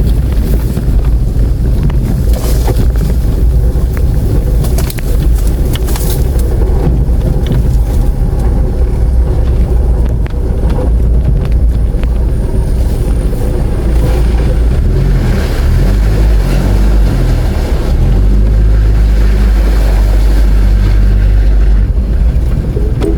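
Vehicle engine running with a heavy low rumble, its pitch shifting a few times as engine speed changes.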